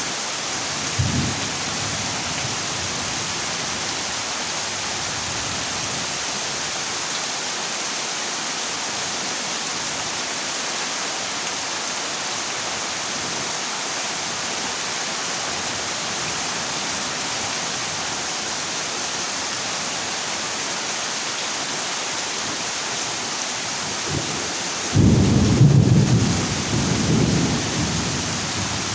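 Heavy rain drumming steadily on a corrugated zinc roof. A short low rumble of thunder comes about a second in, and a louder, longer thunder rumble near the end.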